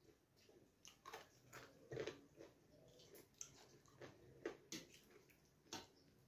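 Eating with the hand: quiet, irregular chewing of a mouthful of rice, dal and chicken curry, with soft wet clicks, and fingers mixing the wet rice and dal on the plate.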